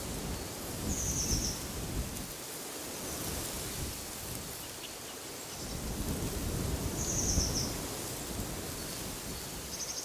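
Wind gusting, rising and falling with a low rumble on the microphone, while a bird gives a short high trill twice, about a second in and about seven seconds in.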